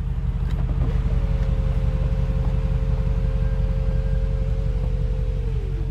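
2020 Mercedes-AMG G63's twin-turbo V8 running with its sports exhaust open, a steady deep exhaust rumble. About a second in the note lifts slightly and holds, then drops back near the end.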